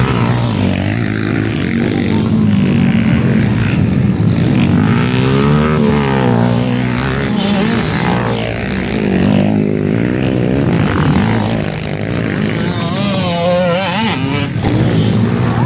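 Several small-displacement underbone motorcycle engines running hard during a motocross heat, their pitch rising and falling as the riders rev and ease off.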